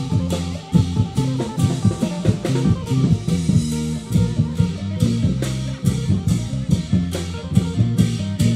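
Isan procession drum band playing: drums keep a steady, driving beat of about three to four strokes a second under an amplified plucked-string melody.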